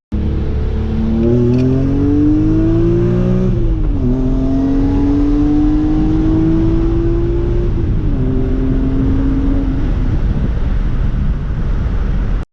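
BMW E46 M3's S54 straight-six through a Megan Racing axle-back exhaust, pulling hard through the gears: the engine note climbs, drops at an upshift about four seconds in, climbs again, and drops at a second upshift around eight seconds. After about ten seconds the note fades into a steady rushing noise.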